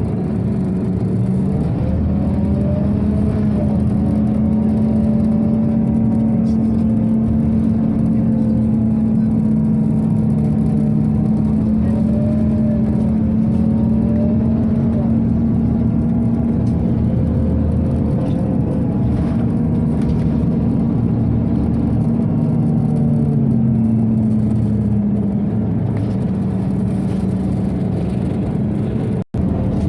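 Scania OmniCity city bus on the move: a steady ventilation whir runs under the engine and drivetrain, whose pitch rises and falls a few times as the bus speeds up and slows. The sound drops out for an instant near the end.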